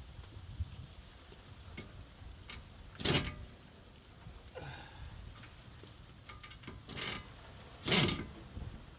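Scattered clicks and clinks of hand tools, a socket and ratchet handled on metal, with louder short knocks about three seconds and eight seconds in.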